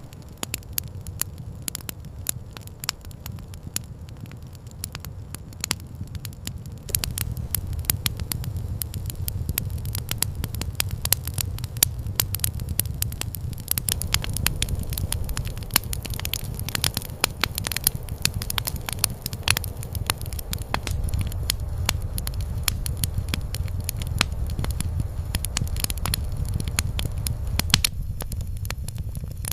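Campfire crackling: dense sharp pops and snaps over a steady low rumble, getting busier and louder about seven seconds in.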